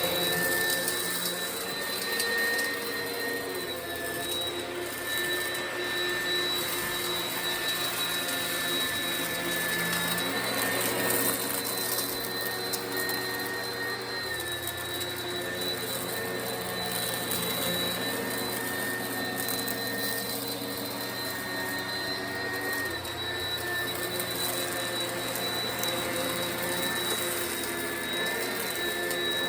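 Oreck XL upright vacuum running steadily over carpet, a high motor whine over a hiss of airflow, with faint crackle as kitty litter is sucked up out of the carpet fibres.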